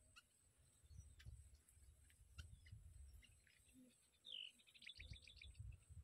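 A faint bird call about four seconds in: a short falling note, then a quick trill of about ten notes, over an intermittent low rumble.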